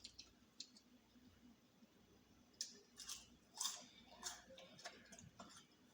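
A person chewing and biting into fried chicken close to the microphone: a handful of short crackly, wet mouth sounds bunched together in the second half, between quiet stretches.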